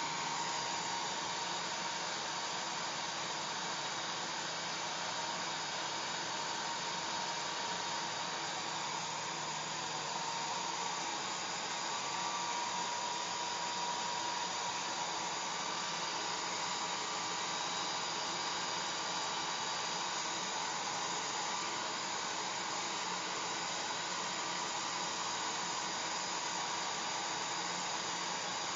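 Hair dryer running steadily: an even rush of blown air with a faint steady motor whine.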